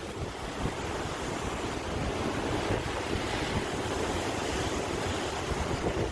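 Sea waves surging and washing in a steady, continuous rush of surf, with wind buffeting the microphone.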